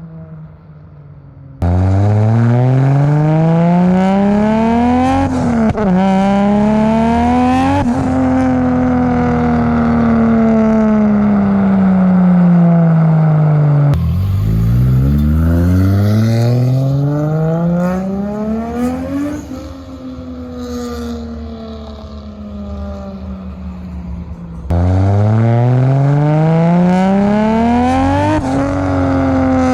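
Turbocharged Toyota Supra MK4 straight-six running loud, revving hard as the car accelerates through the gears. The pitch climbs with short dips at each shift, then falls away in long slides as the car passes and backs off. Three such runs follow each other, each starting abruptly.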